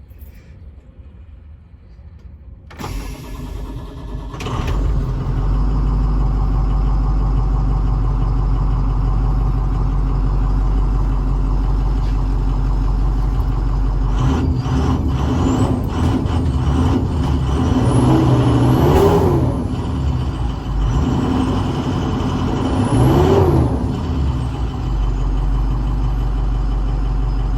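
6.0 L VT365 V8 turbo-diesel in a 2007 IC CE200 bus cranking for a couple of seconds and starting, then idling steadily. It is revved twice in the second half, each rev rising and falling with a high turbo whine.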